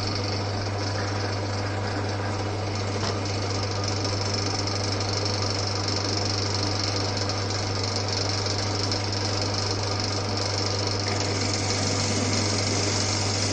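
Old Winfield metal lathe running steadily, its electric motor humming, while the cutting tool turns down raw stock to diameter.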